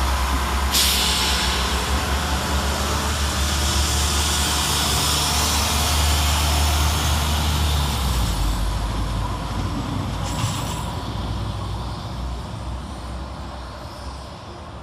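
Two coupled Class 172 Turbostar diesel multiple units departing, with a deep engine rumble that fades as the train draws away. A hiss starts suddenly about a second in.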